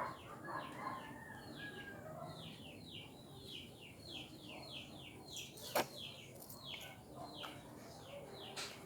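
A small bird chirping over and over, each chirp a short falling note, about three a second. A sharp click comes a little before six seconds in.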